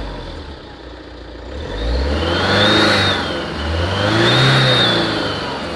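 Tata Safari Dicor turbodiesel engine revved twice from idle, each rev rising and falling back. A turbocharger whistle climbs and drops with each rev.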